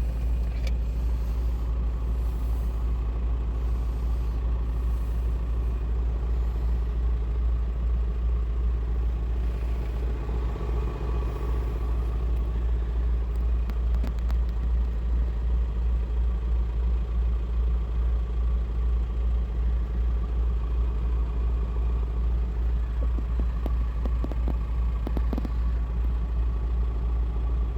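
A vehicle engine running steadily with a deep, evenly pulsing low rumble.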